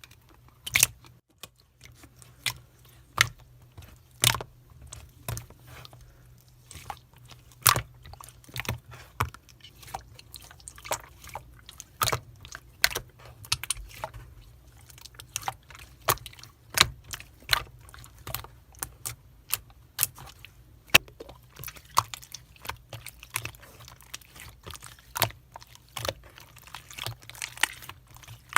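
Slime being squeezed and pressed by hand, giving irregular sharp wet clicks and pops, one or two a second.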